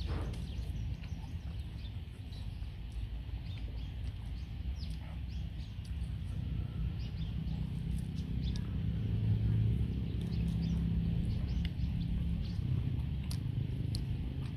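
A man eating sticky rice dipped in raw beef blood salad: wet chewing and lip-smacking clicks, scattered all through. Underneath is a steady low rumble that grows louder around the middle.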